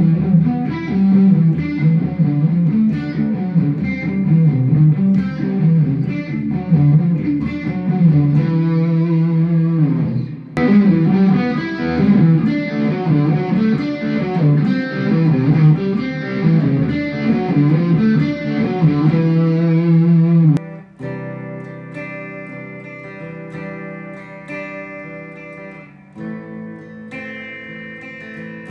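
Electric guitar played through a Mooer GE100 Pro multi-effects unit, demonstrating its presets: a busy, loud passage of notes for about twenty seconds. It cuts off abruptly, and a quieter passage of ringing, sustained notes follows.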